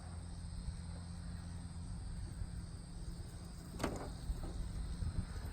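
Steady low hum of a vehicle engine idling, with insects chirping steadily. There is a single sharp click a little under four seconds in.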